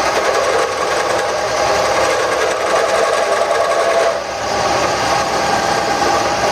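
Wood lathe running with a turning tool cutting the spinning handle blank: a steady, rough cutting noise that eases briefly about four seconds in.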